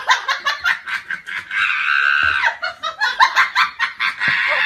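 Someone laughing hard in quick, high-pitched bursts, breaking into a longer high squeal about a second and a half in.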